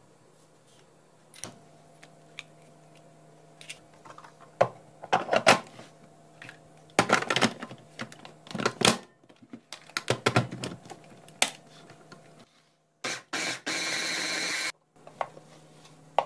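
Irregular clicks and clatter of objects being handled, then near the end a small motor running briefly, for about two seconds, starting and stopping abruptly.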